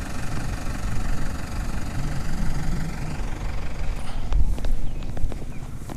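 A motor vehicle's engine running with a low rumble. About four seconds in, the hiss over it fades, and a few short knocks follow.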